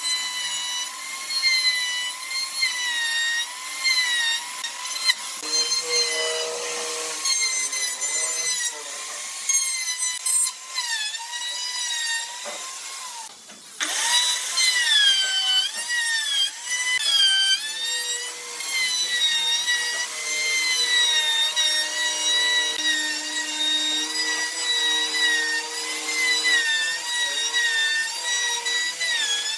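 Small high-speed power tool cutting or shaping wood. Its motor whine keeps dipping in pitch as it bites into the wood and recovering as the load eases. The whine drops away briefly about halfway through before the tool picks up again.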